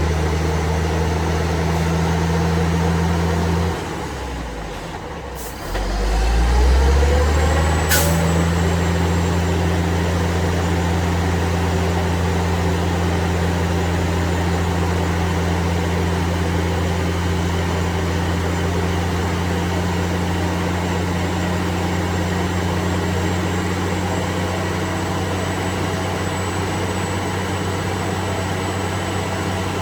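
Truck engine running steadily. About four seconds in the engine drops off, then picks up again with rising pitch, and a sharp short sound comes about eight seconds in.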